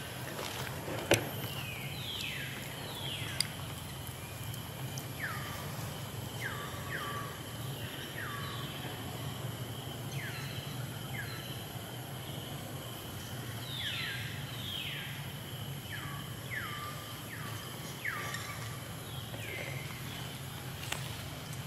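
A bird calling over and over with short whistled notes that drop steeply in pitch, often in pairs, over a steady high insect drone and a low hum. A single sharp click about a second in.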